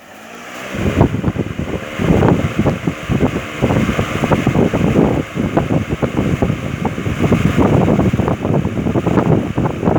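Ventisol 60 cm chromed 200 W wall fan switching on and spinning up over the first second or two, then running with a loud rush of air. The airflow buffets the microphone in gusts.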